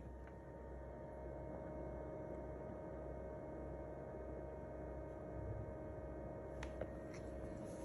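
GE Café refrigerator running: a steady low hum with a steady high-pitched whine over it, and a couple of faint clicks near the end.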